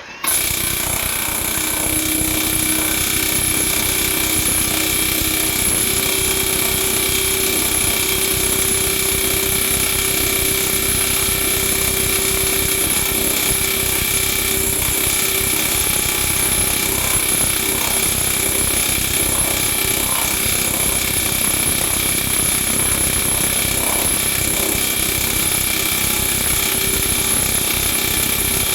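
Power hammer with a plunging die running in continuous rapid strokes on sheet metal, stretching an area of the panel. It is loud and steady.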